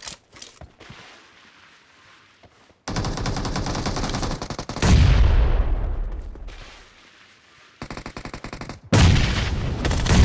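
Automatic gunfire in a team shooter video game. Faint clicks come first, then a long burst of rapid fire about three seconds in. Louder, deeper shots follow near five seconds and fade away, and more rapid bursts start around eight and nine seconds.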